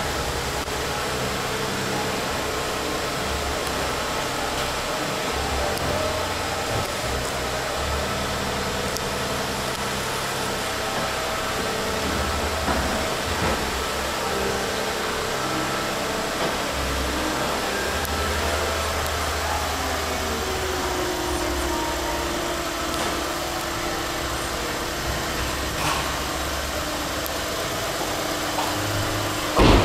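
Lexus IS250C's 2.5-litre V6 idling steadily, with one sharp knock near the end.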